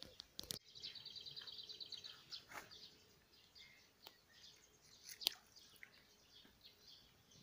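A songbird singing a fast trill of repeated high notes, from about half a second to two seconds in, then fainter scattered chirps. A few short clicks, the sharpest about five seconds in.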